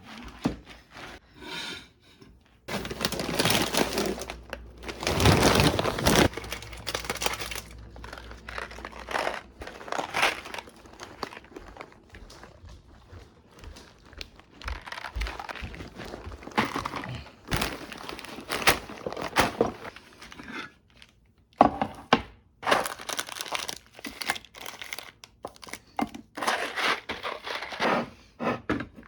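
Crinkly material being handled and rustled in bursts, with a few thunks.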